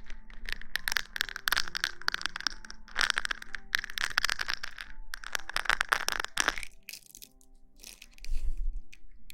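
Close-miked rustling and crinkling in bursts of fine crackles, easing off near the end, over faint soft background music.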